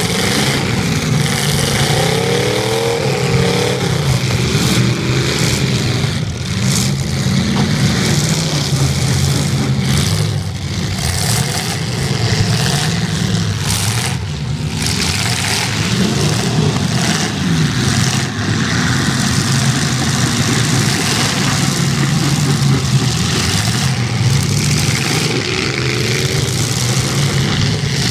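Several demolition-derby cars' engines revving hard at once, their pitch rising and falling again and again over a constant din of running engines.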